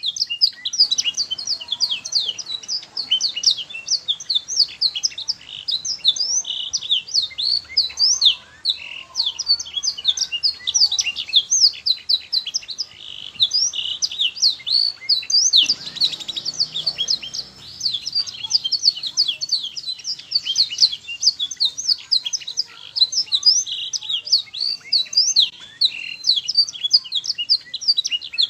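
Domestic canary singing a long, unbroken song of rapid, high-pitched trills and chirps.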